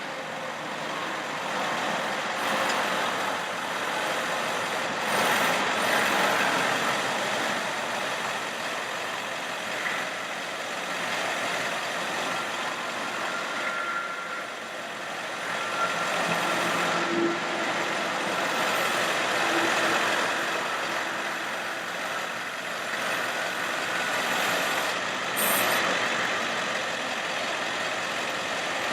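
A 1999 Ford F550 bucket truck's engine runs steadily with the PTO engaged, driving the Altec boom's hydraulics. The loudness rises and falls gently, and a faint whine comes and goes.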